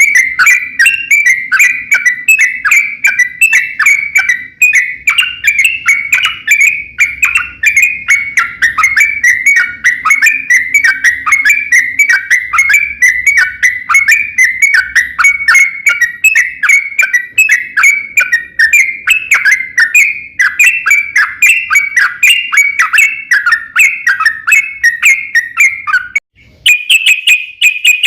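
Yellow-vented bulbul (trucukan) singing a long, unbroken song of quick, bubbly chirped notes, about five a second. About 26 seconds in, the song breaks off briefly and resumes slightly higher and more even.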